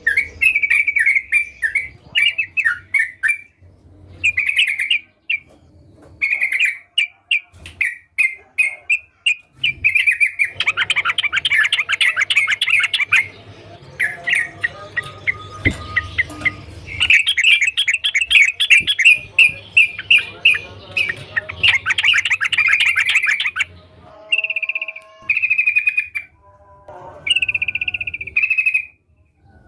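Yellow-vented bulbul (trucukan) singing: a long series of short bubbling notes, with two stretches of fast, dense chattering runs in the middle.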